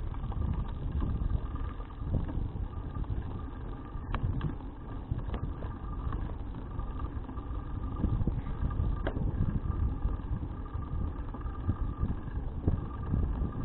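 Wind rushing over an action camera's microphone while cycling: a continuous, gusting low rumble with a faint steady whine above it and a few light clicks.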